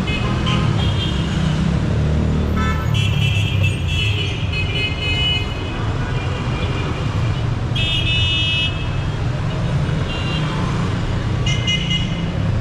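Dense city street traffic rumbling steadily, with car horns honking again and again, including one long, broken run of honks about three seconds in.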